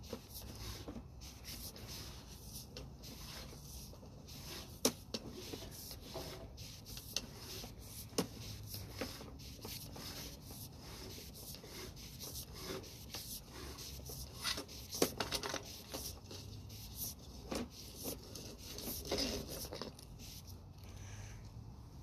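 Irregular rubbing and scraping with scattered sharp clicks and knocks, typical of a sewer inspection camera's push cable and gear being handled.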